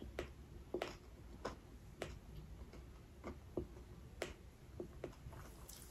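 Close-miked chewing of a mouthful of sushi, heard as about ten faint, sticky mouth clicks at uneven spacing, roughly two a second.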